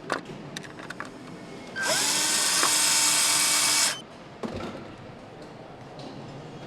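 A power tool runs for about two seconds, starting with a rising whine and cutting off suddenly. Scattered clicks and knocks of assembly work come before and after it.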